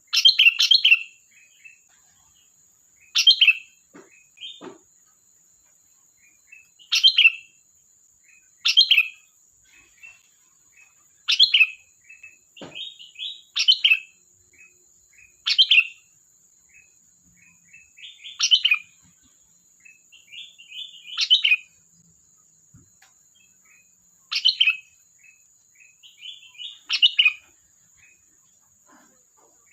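Sooty-headed bulbul (kutilang) singing: short, loud chirping phrases repeated every two to three seconds, about a dozen in all.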